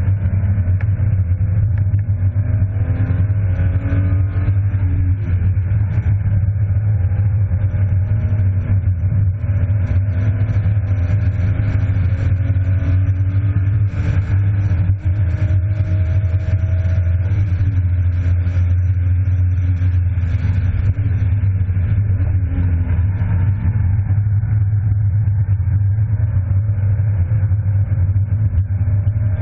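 BMW E36 325i's 2.5-litre straight-six heard from inside the cabin at track speed, its pitch climbing slowly several times and falling away again, over a heavy steady low drone.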